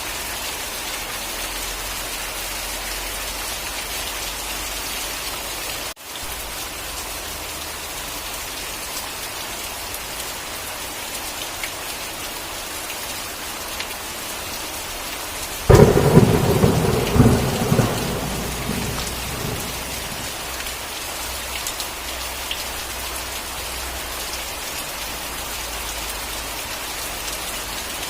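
Steady heavy rain, with a sudden loud thunderclap a little past halfway that rumbles on and dies away over a few seconds. The rain cuts out for an instant about six seconds in.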